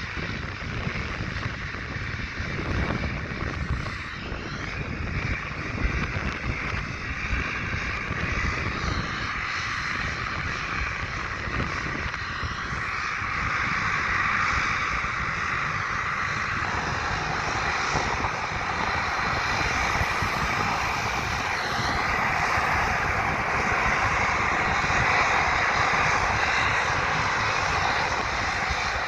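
Propeller airliner's engines running steadily, growing gradually louder, with strong wind buffeting the microphone.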